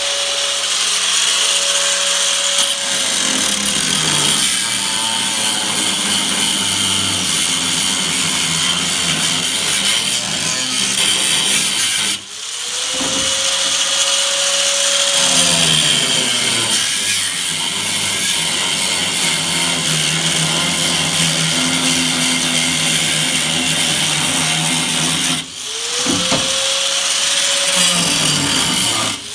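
Power cutting tool cutting old patch sheet metal off a 1965 Mercury Comet's rear quarter panel, running loud and hissy throughout. It stops and restarts twice, its whine rising each time it spins back up and sagging as it cuts into the metal.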